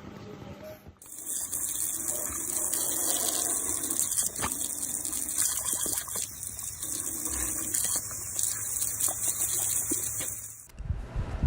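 Steady rush of running water, starting about a second in and cutting off suddenly near the end.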